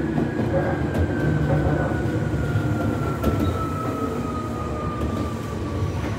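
Cabin running noise of a Nagano Electric Railway 8500-series electric train approaching a station: a steady low rumble from the running gear, with a thin whine that falls slowly in pitch as the train slows.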